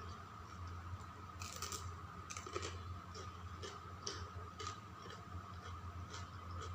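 Close-miked eating sounds: irregular small wet clicks and smacks of chewing, a few each second, with a slightly longer one about a second and a half in.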